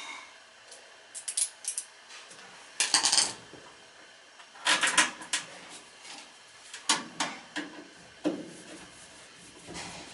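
Bursts of sharp metallic clinking and clattering, about five clusters a second or two apart, from tools and metal parts being handled during work on a furnace.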